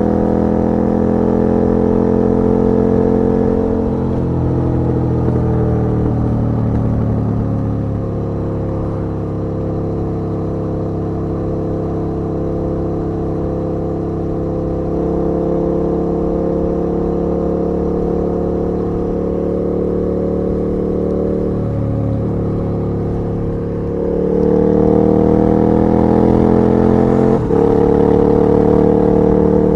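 KTM 1290 R's V-twin engine running while the bike is ridden, its note rising and falling with the throttle. It gets louder and climbs in pitch from about three-quarters of the way through, with a brief break in the note shortly before the end.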